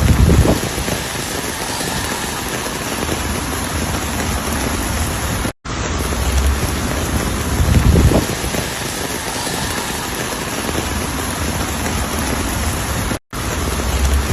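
Steady heavy rain hiss, with a low swell in the sound near the start and again about eight seconds in. The sound cuts out for an instant twice, about five and a half and thirteen seconds in.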